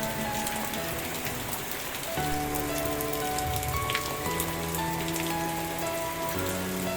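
Steady rain falling, a dense patter of drops, over soft background music of held low notes that shift every two seconds or so.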